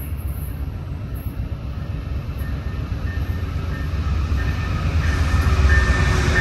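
Train running on the rails: a steady low rumble that grows louder over the last couple of seconds, with a thin high tone joining about four and a half seconds in.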